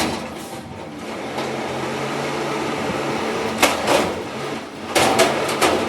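Garbage truck engine running with a steady hum, with several sharp clanks from about three and a half seconds in.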